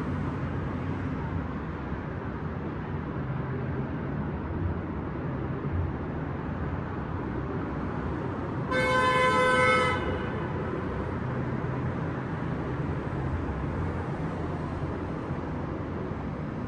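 Steady city street traffic rumble, with a single car horn honk, one steady tone lasting about a second, near the middle.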